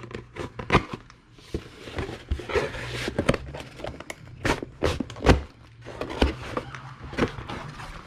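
Clicks, knocks and scraping of hand work on a disassembled Tecumseh small-engine block, with the loudest knock a little over five seconds in. A steady low hum runs underneath.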